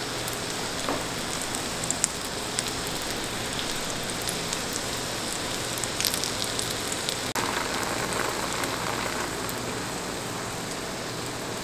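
Egg-dipped ham-and-cheese sandwich frying in butter in a nonstick pan, with the heat turned down: a steady sizzle with scattered small pops and crackles.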